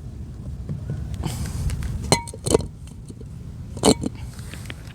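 A handful of sharp clicks and one short ringing clink as small screws and door parts are handled and fitted into a car door, over a steady low rumble.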